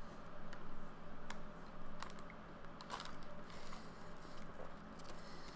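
Close-up mouth sounds of someone chewing a soft cookie: irregular small clicks and crackles.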